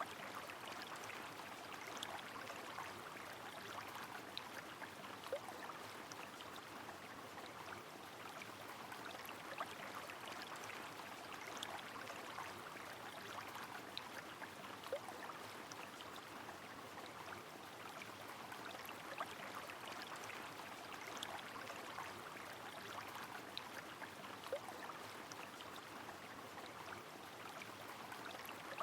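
Steady rush of a flowing river mixed with falling rain, with many small scattered drips and patters throughout.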